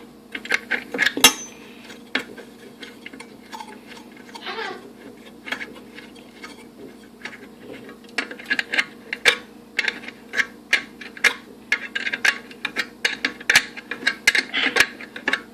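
A metal hand tool clicking and clinking against the grill's metalwork in many short, irregular ticks, sparse at first and coming quickly from about halfway on, as the new burner's retaining screw is tightened with a 10 mm wrench.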